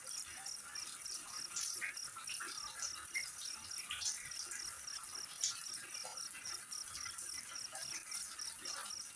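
Insect chirping in a steady rhythm of about four pulses a second, over a constant high hiss with scattered short ticks.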